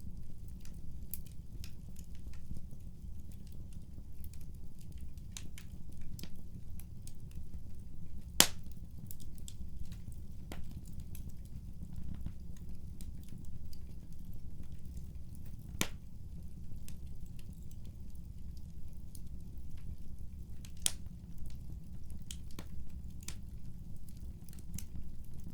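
Wood fire crackling: a steady low rumble under scattered small snaps, with three louder pops, the loudest about eight seconds in.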